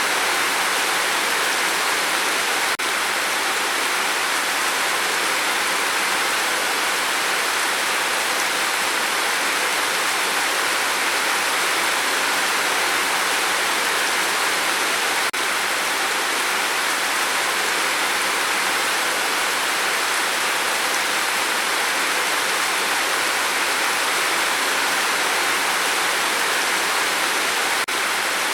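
Steady rain, an even dense hiss without distinct single drops, broken three times, about every twelve seconds, by a tiny click and momentary dip.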